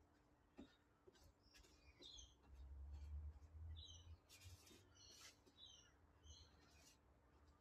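Near-quiet with faint bird chirps: short, high calls every second or so. A faint low rumble rises and fades around three seconds in.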